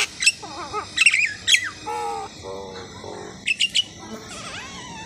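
Asian pied starling (jalak suren) singing a varied jumble of short sharp high notes, pitched whistles and wavering glides that rise and fall.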